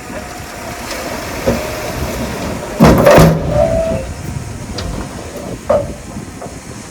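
Heavy earthmoving machinery running with a steady low rumble. About three seconds in there is a loud, short burst of hiss, followed by brief metallic squeals, and another short squeak comes near the end.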